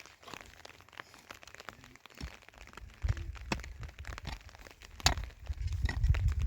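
Crinkling and crackling of a plastic sheet being handled, with many sharp clicks. Low rumbles come in about halfway through and again near the end.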